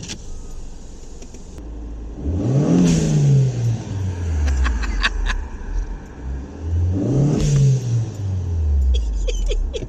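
Turbocharged car engine revved twice, each time climbing quickly and dropping back more slowly, with a hiss from the dump valve venting boost as the throttle shuts.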